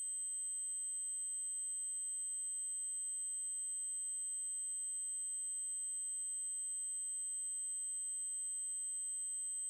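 A steady, high-pitched 8192 Hz triangle-wave tone, held unchanging.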